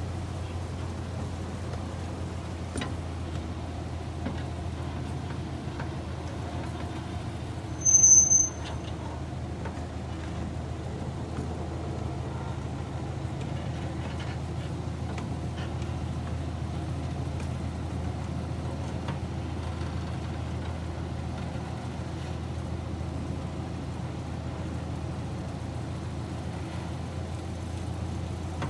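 Miniature railway train running along its track: a steady low hum and rolling rumble. About eight seconds in there is one brief, shrill, high-pitched squeal.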